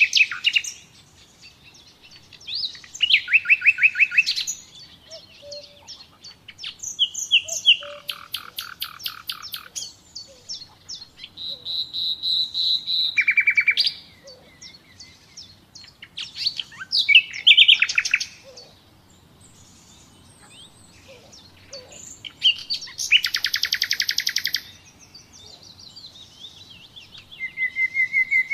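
Nightingale singing: a string of varied, loud phrases a few seconds apart. Many phrases are fast trains of repeated notes, with a drawn-out whistle in between.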